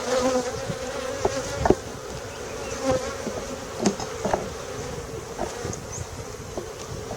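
Honeybees buzzing around an opened hive: a steady hum, with a few light knocks and clicks scattered through it.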